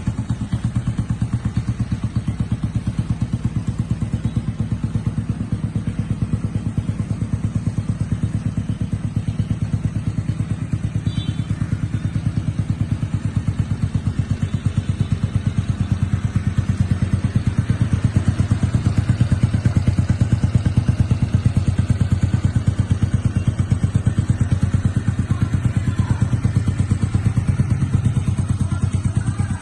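Restored 1979 Honda motorcycle engine running steadily with rapid even firing pulses. It picks up slightly and gets a little louder about two-thirds of the way through, then settles back.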